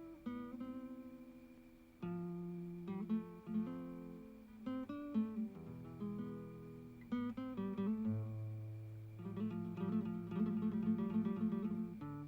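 Acoustic guitar music: plucked and strummed chords, with a quick tremolo-like run of repeated notes towards the end.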